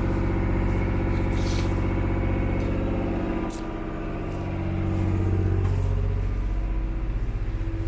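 Tour boat's engine running steadily with a low hum, its level dipping briefly about halfway through before picking up again.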